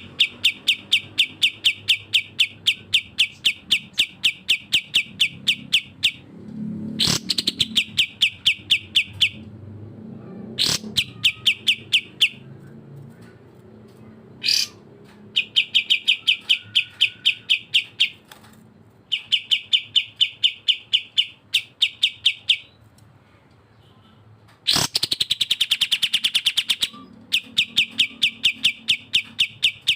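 Bulbul calling in bouts of rapid, evenly repeated high chirps, about five a second. Each bout lasts a few seconds, with short pauses between. About 25 s in comes a faster, denser rattle.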